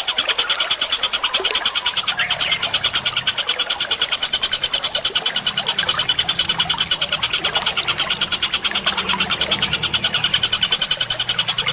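Fast, continuous bird chattering at about eight short calls a second, from a looped masteran bird-training recording of Eurasian tree sparrows, kingfisher and bulbul calls mixed with running water.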